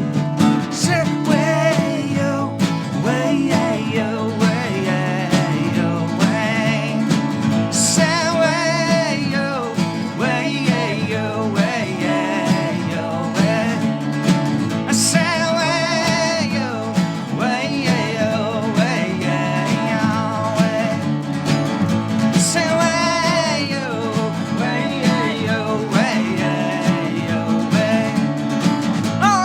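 Live band music: strummed acoustic guitar and a low rhythm part, with a wavering lead melody line over them.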